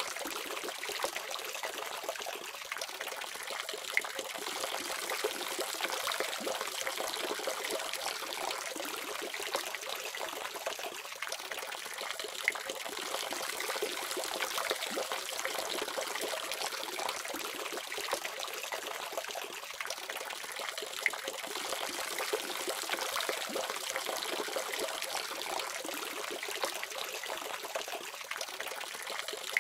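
Water running steadily from a faucet, with a continuous splashing hiss and small droplet ticks.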